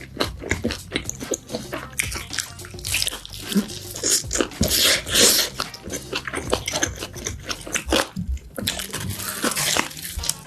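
Close-up eating sounds: a person biting, crunching and chewing food in irregular bursts, loudest about three and five seconds in.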